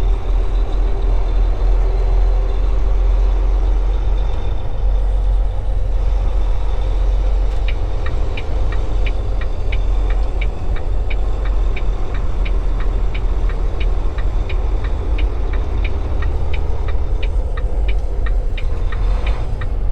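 Semi truck's diesel engine running with a steady low rumble, heard from inside the cab. From about eight seconds in, a turn signal ticks about twice a second.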